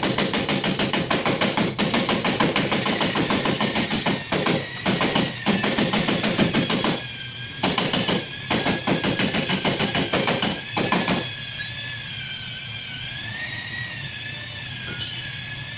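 Rapid mechanical hammering in repeated bursts for about eleven seconds, then it stops, over a steady high whine.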